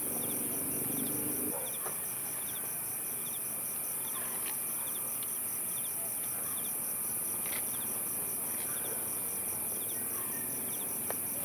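Insects chirping steadily outdoors, a fast regular pulsing with short chirp groups repeating every second or so over a high hiss. A low hum underneath stops about a second and a half in.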